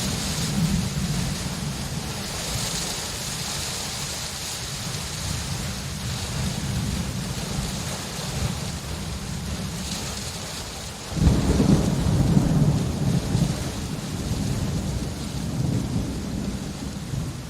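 Steady rain with thunder rumbling low beneath it. About two-thirds of the way through, a sudden loud clap of thunder breaks in and rumbles on for several seconds.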